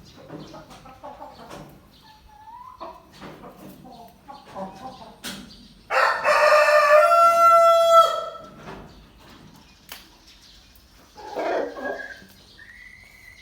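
Aseel rooster crowing once, a loud two-second crow about six seconds in, with softer clucking before and a shorter call near the end.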